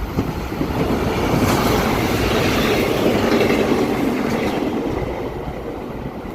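A passenger train passing by: wheel and rail noise swells about a second in, holds loud through the middle, then fades away.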